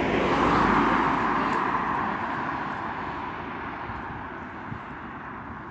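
A road vehicle passing close by. Its tyre and engine noise is loudest in the first second, then fades steadily as it drives away.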